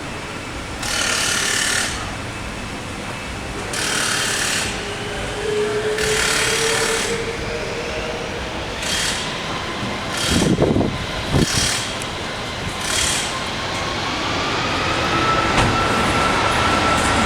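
Boeing 747 jet engines running, with a whine that rises in pitch about three-quarters of the way through and then holds, as the engines spool up toward takeoff power. Over it come repeated rushing bursts about a second long, and two short low thumps a little past halfway.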